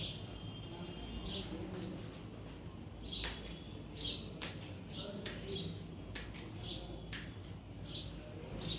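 Small birds chirping repeatedly: short high chirps, one or two a second, over a steady low hum.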